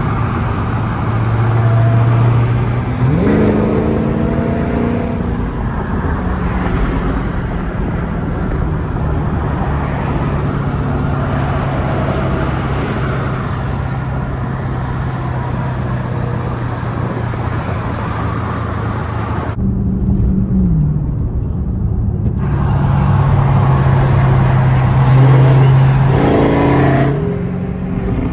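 Dodge SRT 392's 6.4-litre Hemi V8 running while the car is driven, a steady drone that climbs in revs a few seconds in and again near the end.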